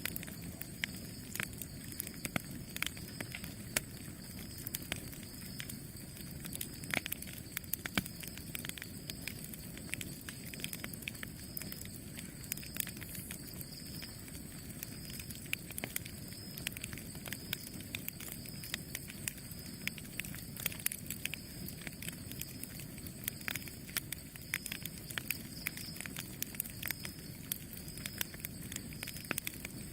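Campfire crackling: frequent, irregular sharp pops and snaps of burning wood over a steady low rumble of the flames.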